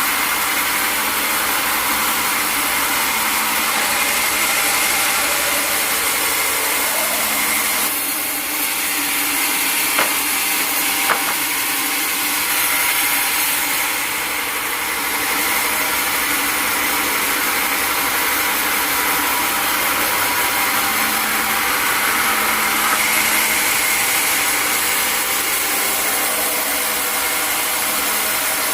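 A sawmill saw running steadily through a log, with two short clicks about ten and eleven seconds in.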